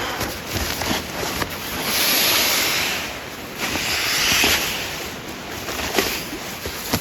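Rushing, splashing river water with two louder surges of splashing about two and four seconds in, and a few sharp knocks.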